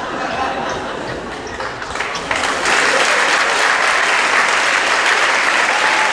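Theatre audience applauding, swelling louder about two seconds in and then holding steady.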